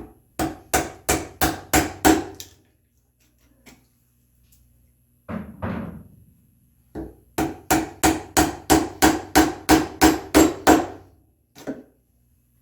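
Mallet driving a chisel into red oak to chop out the centre of a mortise: two runs of steady blows about three a second, the first of about seven and the second of about a dozen, each strike with a short ringing knock. Between the runs comes a short scrape, and a single blow near the end.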